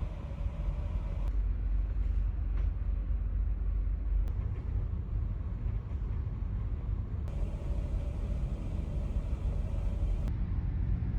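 Steady low rumble of a passenger ferry under way, heard aboard, with a faint hum that comes and goes abruptly at a few points.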